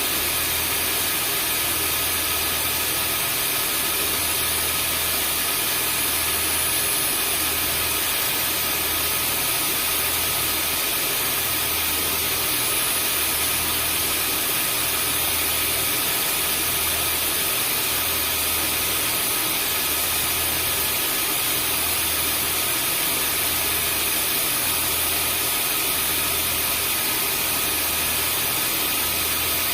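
Vacuum cleaner running steadily: a continuous whooshing hiss with high, steady whining tones over a low motor hum that throbs about every second and a half.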